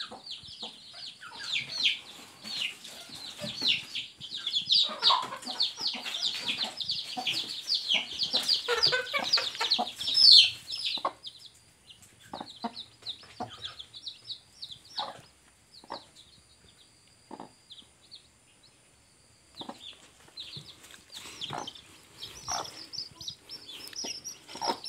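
Newly hatched chicks peeping, a rapid stream of short high cheeps that thins out after about ten seconds and picks up again near the end. A hen's lower clucks come in now and then among them.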